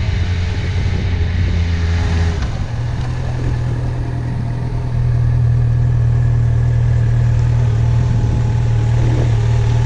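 Yamaha FZ6R's inline-four engine running steadily at low revs, its pitch stepping up slightly about two and a half seconds in and growing louder about halfway through.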